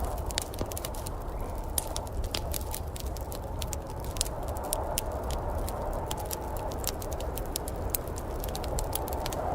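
Wood fire in a fireplace crackling, with irregular sharp pops and snaps, several a second, over a steady hiss and a low rumble.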